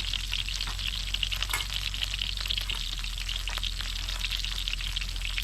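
Pork belly sizzling in a hot pan: a steady crackle with many small sharp pops of spitting fat.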